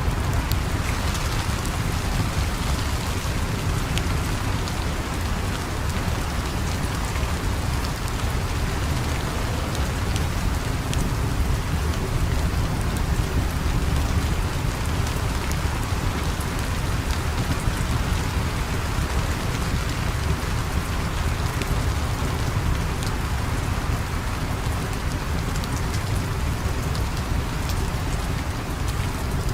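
Steady heavy rain falling, a dense even hiss with a deep low rumble and scattered faint ticks.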